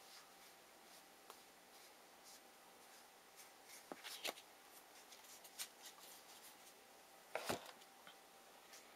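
Trading cards being handled: faint scattered rustles and small clicks as cards are moved and set down, with a louder knock about seven and a half seconds in.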